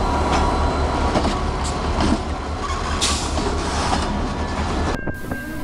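A string of diesel freight locomotives rolling past, a steady low engine rumble with rail and wheel noise. About five seconds in it cuts off abruptly to a different sound with a steady high tone.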